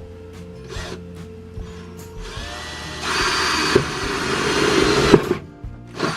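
Power drill with a step bit spinning up about two seconds in, then cutting into sheet metal for about two seconds before stopping.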